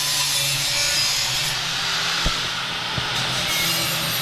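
Grinder grinding down the steel of a sandblaster tank, smoothing its cut edges to make them less sharp: a steady harsh grinding over the motor's hum, with two short knocks about two and three seconds in.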